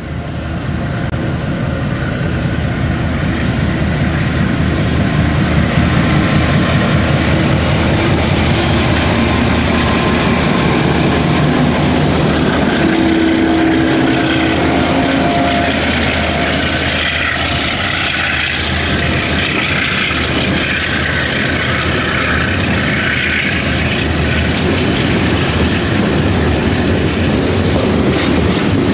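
Diesel locomotives hauling a train pass close by, their engines running, then a long line of wagons rolls past with steady wheel-on-rail noise.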